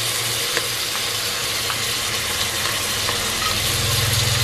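Lemongrass and seasonings sizzling as they stir-fry in oil in a metal pot, with a steady low hum underneath that grows a little louder near the end.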